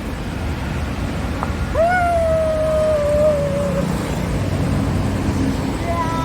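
Steady road-traffic rumble, with one loud drawn-out high tone about two seconds in that jumps up, then sags slowly in pitch over about two seconds before stopping.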